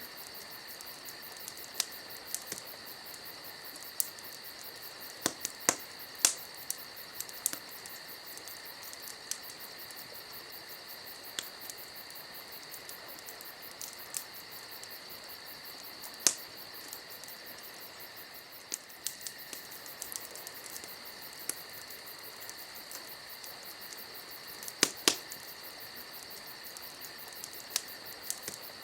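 Wood fire crackling, with irregular sharp pops and snaps, a few much louder than the rest. Crickets trill steadily and high underneath.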